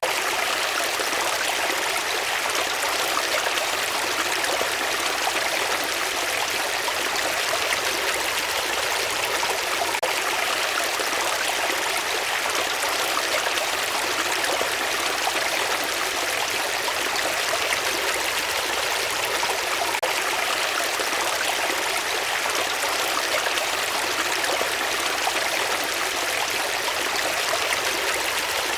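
Running water, a steady even rush like a stream flowing, unchanging throughout.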